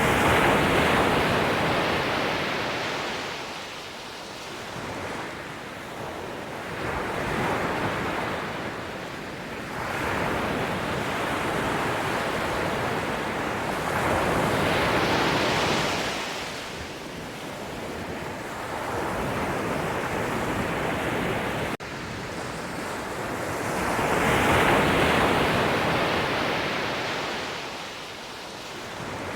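Sea waves breaking and washing on the shore, a rushing surf noise that swells and falls away every few seconds.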